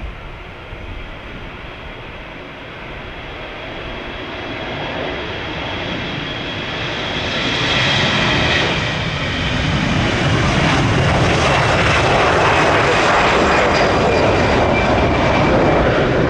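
Jet airliner's engines growing steadily louder over the first half, then holding a loud, steady roar with a high whine.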